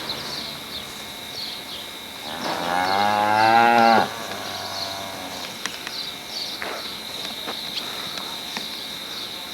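A dairy cow mooing once, a loud drawn-out call of about two seconds that starts around two seconds in and cuts off sharply.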